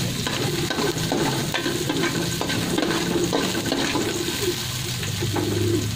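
Chicken pieces sizzling in oil in a large aluminium pot. A metal ladle stirs them, scraping and knocking against the bottom of the pot over and over.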